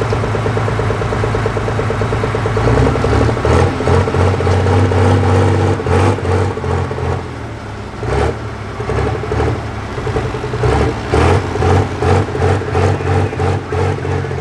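Light pro stock pulling tractor's turbocharged diesel engine running, getting louder about three seconds in, then surging up and down in quick pulses over the last few seconds.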